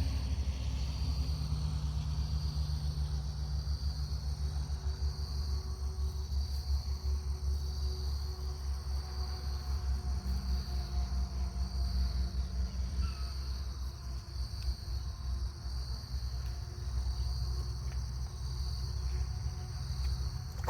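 Insects chirping in an even, repeating pulse, over a continuous low rumble of highway traffic.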